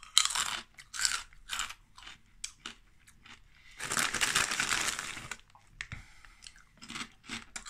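Close-up chewing of crunchy fried pork-fat strips (pork-scratching-style snack): a string of short, sharp crunches, with a longer noisy stretch about four seconds in.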